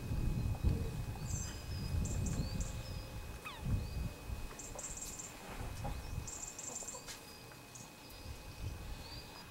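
Birds chirping in short, repeated high-pitched bursts, with a few quick rising calls, over a low rumble on the microphone that fades after the first few seconds.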